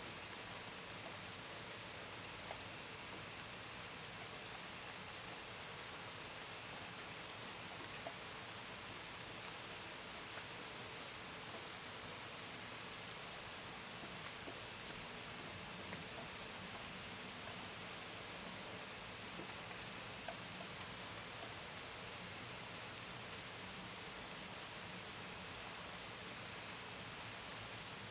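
Steady gentle rain with scattered drops tapping against a window and gutters, and crickets chirping throughout in a high, steady, slightly pulsing trill.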